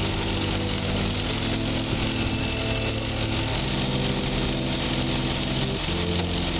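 Tractor engine running steadily under load, with a noisy hiss over it and steady pitched tones underneath that jump to a new pitch three times.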